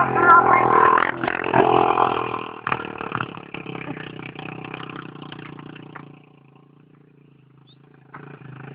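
Small dirt bike engine revved hard, its pitch rising and falling, for the first two and a half seconds, then running at lower revs. About six seconds in it drops to near quiet, and the engine sound comes back about two seconds later.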